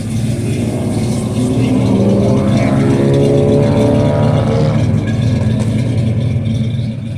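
Pontiac 455 V8 in a GMC Sonoma pickup running loudly, revved up for a few seconds midway and then settling back.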